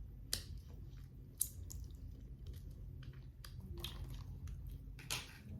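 A person chewing crunchy freeze-dried candy, with scattered faint crunches.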